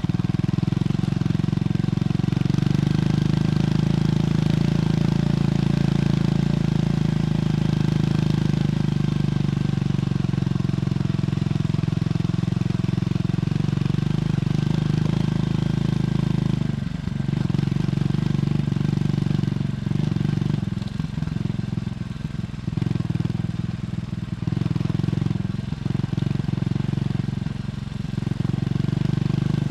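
Triumph Scrambler 400X's single-cylinder engine through its stock exhaust, running steadily while riding. About halfway through, the note starts dipping and picking up again several times as the throttle is eased off and reopened.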